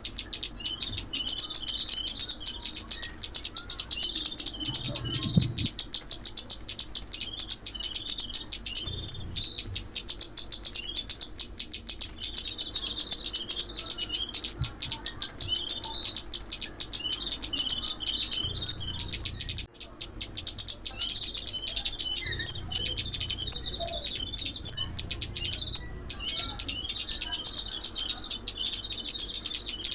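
Recorded song of the small bird called chim ốc mít, played as a trapping lure: dense, rapid, high-pitched chirping and twittering trills almost without pause, over a thin steady high tone.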